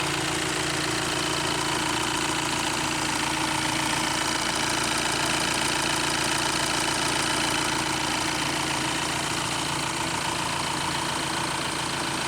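Audi A4 engine idling steadily, with an even, unchanging engine note and no revving.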